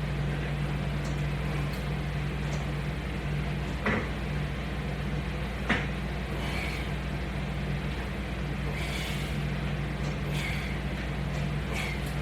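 A steady low hum runs throughout. Two sharp clicks come about four and six seconds in, and a few faint short hisses follow later.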